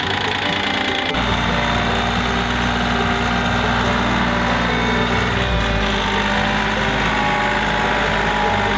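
Tractor engine running steadily while plowing snow; about a second in, a deeper rumble comes in and holds.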